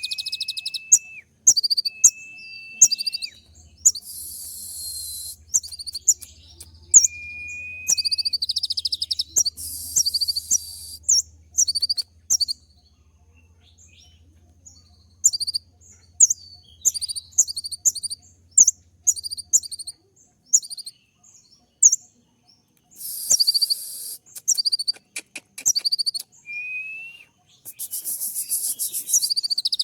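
Kolibri ninja sunbird singing a fast, sharp 'tembak' song: runs of quick high chirps, several dense buzzy trills, and now and then a short drawn-out whistle, broken by pauses. A faint low hum sits under it for the first two thirds.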